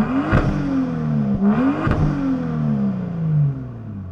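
BMW F87 M2's N55 turbocharged inline-six revved twice through the M Performance exhaust with its valves open in Comfort mode: a rev that peaks just after the start and drops, then a second that climbs about a second and a half in and falls away slowly, with a sharp crack at the top of each rev.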